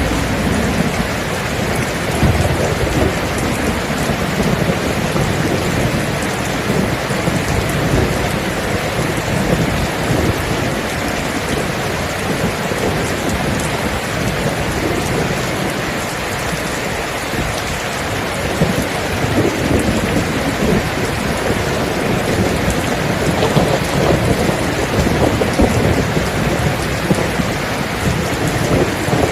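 Steady rain falling hard, with rolling thunder rumbling low beneath it. The thunder swells and fades through the whole stretch.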